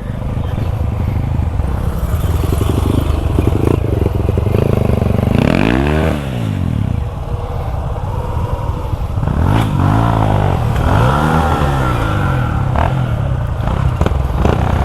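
Suzuki V-Strom 250 SX's single-cylinder engine running while riding, revving up and dropping back about five seconds in and twice more around ten and eleven seconds in, over a steady rushing noise.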